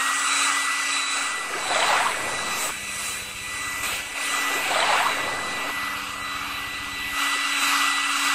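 A steady high-pitched whine that glides up into place at the start, over a rushing noise that swells twice, about two and five seconds in, like a jet engine.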